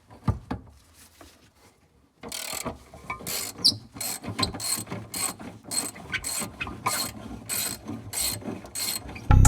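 Socket ratchet wrench being worked on a nut. Starting about two seconds in, it clicks in repeated strokes, roughly two to three a second.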